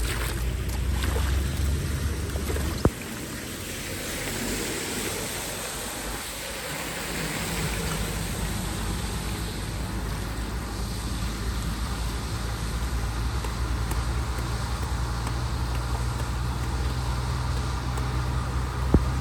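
Rushing water in a steady wash, with wind rumbling on the microphone. A sharp click about three seconds in and another near the end.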